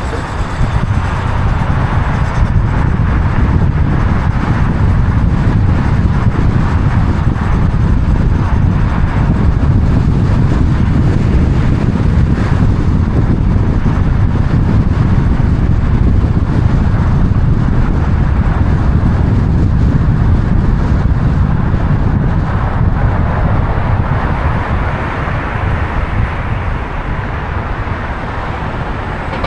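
Steady road and engine noise of a moving car, a continuous low rumble that eases a little near the end.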